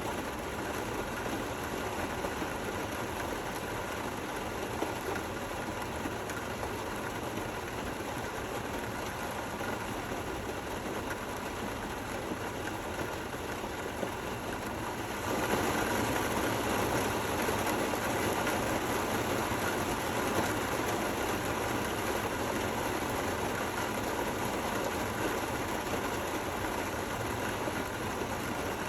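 Steady rain falling, an even hiss with no thunder, growing louder about halfway through.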